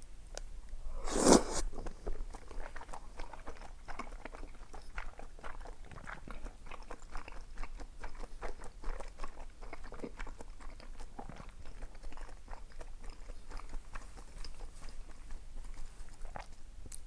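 Close-miked eating: a loud bite about a second in, then steady chewing with many small wet clicks and crunches.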